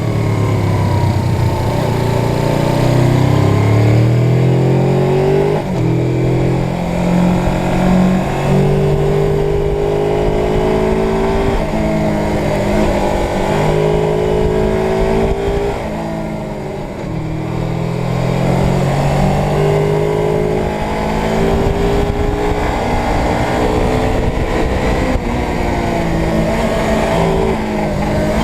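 Suzuki GS 500 parallel-twin engine under way, its note climbing with each acceleration and breaking off to a lower note at each upshift, several times over. A steady rush of wind noise runs underneath.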